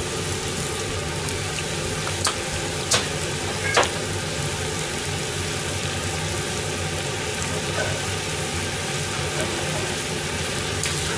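Chicken cartilage and leeks sizzling in a frying pan on a gas burner: a steady frying hiss, with a few light clicks about two to four seconds in.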